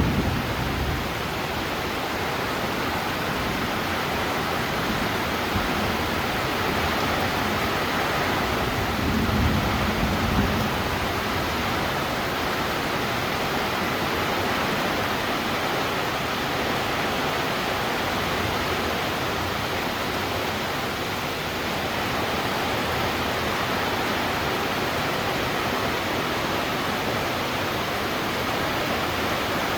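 Steady rain falling, an even rushing hiss, with a brief low rumble about nine seconds in.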